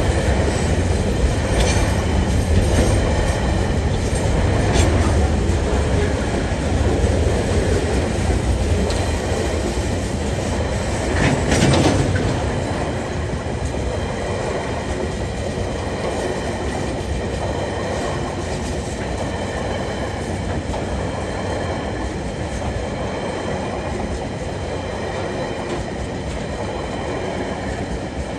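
Freight train's container flat wagons rolling past: a steady rumble and clatter of steel wheels on the rails, with a thin high wheel squeal over it. A brief louder clank comes about 11 seconds in, and the sound eases a little after it.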